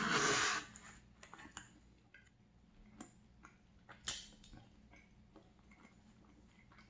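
Quiet close-miked chewing of a sugar-dusted mini donut with mixed-berry jam filling: soft, scattered wet clicks and mouth smacks. A short burst of noise comes at the very start, and a sharper click about four seconds in.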